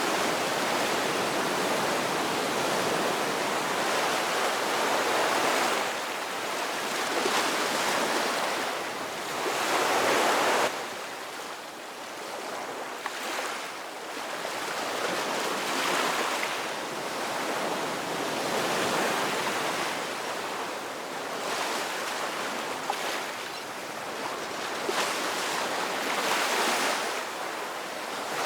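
Ocean surf: waves breaking and washing in, the rush swelling and ebbing every few seconds. About a third of the way through, the level drops suddenly.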